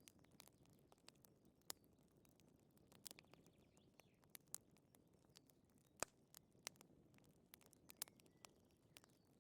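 Wood fire crackling, with irregular sharp pops and snaps over a soft low rumble, the loudest pop about six seconds in.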